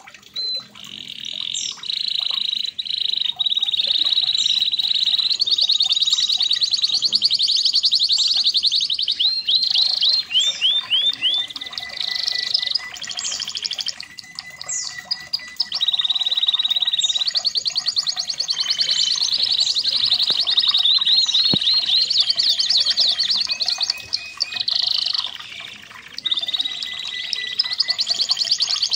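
Red factor canary singing a long, continuous song of rapid trills and rolls, with fast repeated notes and short gliding phrases and only brief breaks.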